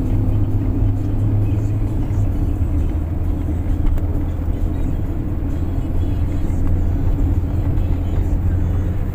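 Steady low rumble of a car driving along at cruising speed, heard from inside the cabin: engine and tyre road noise.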